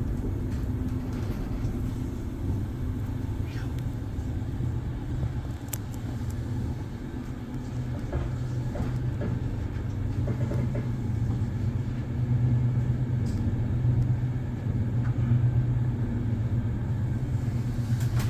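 Steady low rumble of a double-deck sleeper train running, heard from inside the carriage, growing a little louder past the middle, with a few faint clicks and rattles.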